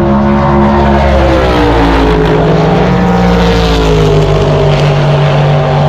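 Loud drag-racing car engine, its pitch dipping about two seconds in and then holding steady.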